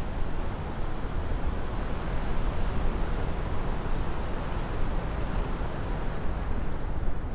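Steady wind rush over the microphone from the airflow of an unpowered paramotor glide, with no motor running because the engine has died.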